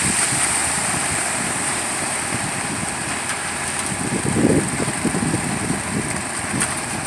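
Steady vehicle noise, a running engine with a constant rush, with a brief louder rumble about four and a half seconds in.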